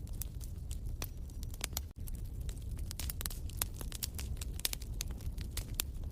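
Wood fire crackling in a fireplace: frequent sharp pops and snaps over a low, steady rumble. The sound cuts out for an instant about two seconds in.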